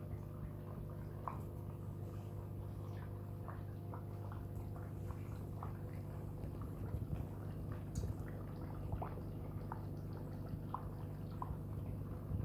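Aquarium equipment running: a steady low hum from the pump, with small irregular drips and bubble pops from the water and the sand-waterfall air lift.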